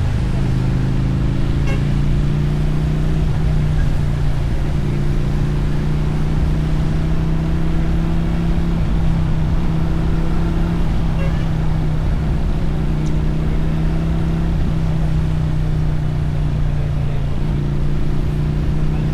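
Motorcycle engine and exhaust running at fairly steady revs while riding, the note drifting slightly up and down in pitch over a low rumble.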